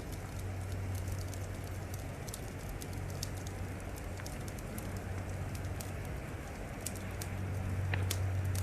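Wood fire crackling, with frequent sharp snaps and pops over a steady low rumble that swells near the end.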